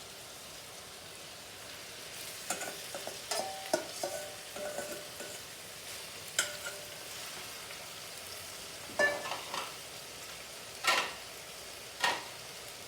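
Ground chicken sizzling in hot oil with onion, garlic and ginger, a steady frying hiss. From about two seconds in, a utensil stirs it, scraping and knocking against the cooking vessel, with several sharper clanks.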